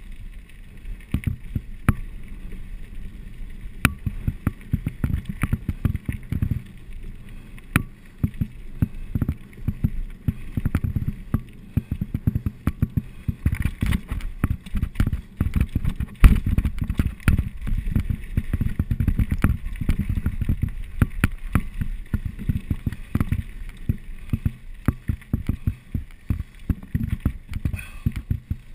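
Mountain bike running down a rough trail: a constant low rumble with rapid, irregular knocks and rattles from tyres and bike over the ground, and one hard knock about sixteen seconds in.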